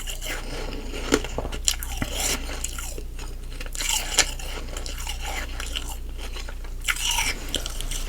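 Humidifier frost ice being bitten and chewed close to the microphone: irregular sharp crunches, several louder bites, between steady crunchy chewing.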